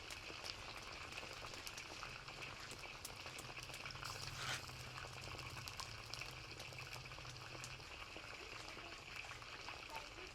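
Food cooking in a pot of chicken biryani: a steady bubbling sizzle full of small pops and crackles. A faint low hum runs under it and stops about eight seconds in.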